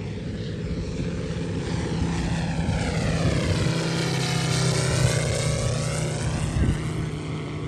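Large-scale RC TBF Avenger model's Moki 300 five-cylinder radial engine droning steadily as the plane passes by, growing louder to a peak a little past halfway and then fading.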